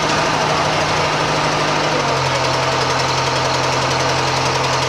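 Wright R-3350 radial piston engines of a Lockheed Constellation running loudly and steadily during a ground maintenance run-up. The engine note drops a little in pitch about two seconds in.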